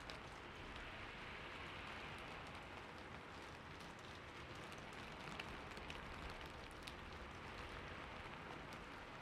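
Steady rain with scattered drops ticking on a surface.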